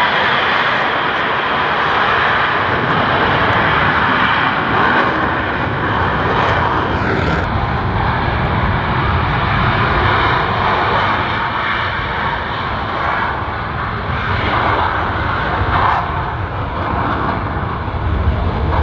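Blue Angels F/A-18 jets flying their demonstration: loud, steady jet engine noise that eases slightly in the second half.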